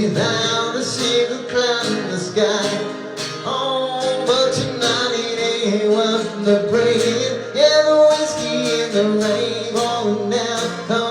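Country song: a man singing over strummed acoustic guitar.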